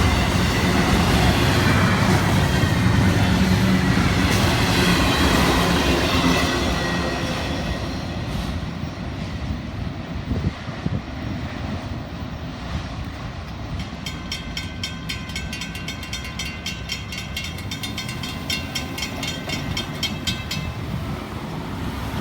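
Intermodal freight train rolling past with its wheels clacking over the rail joints. It is loud for the first several seconds, then fades as the cars move on. Past the middle a rapid, evenly repeated ringing joins in for several seconds.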